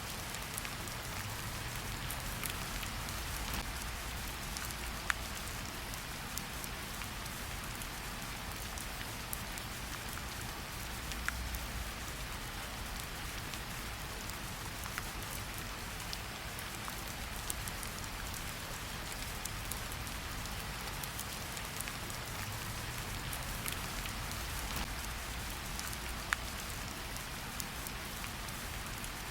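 Steady rain falling in a forest, a dense even patter with scattered louder drops landing nearby.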